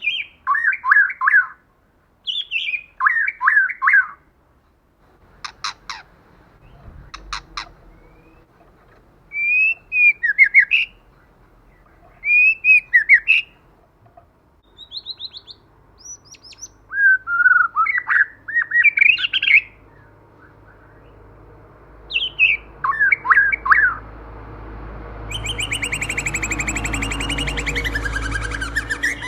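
White-rumped shama singing: short, varied whistled and warbled phrases separated by pauses, with a few sharp clicks about six to seven seconds in. Near the end comes a long, buzzy, rattling trill.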